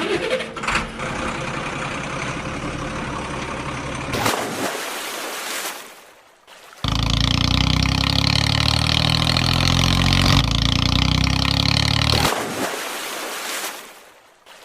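Vehicle engine sounds in edited segments: a steady engine sound for about four seconds that fades away, then a louder steady engine drone that cuts in suddenly about seven seconds in, runs for about five seconds and fades out near the end.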